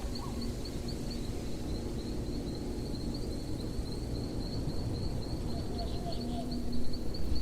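Crickets chirping in a steady, rapid, high pulse over a low outdoor rumble, with a few louder knocks near the end.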